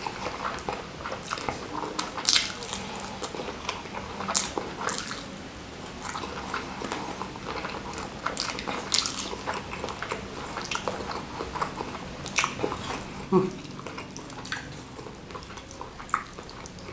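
Close-miked chewing and wet mouth smacks of a person eating salted squid sambal and petai beans with rice, many short irregular clicks throughout.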